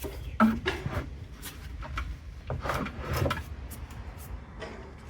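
Irregular clicks, knocks and rubbing of metal parts being handled while a hot water heater is taken apart, the sharpest knock about half a second in.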